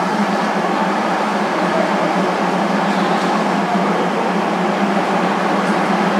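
Diesel-hauled passenger train standing with its engine idling: a steady, even drone with a constant low hum that does not change.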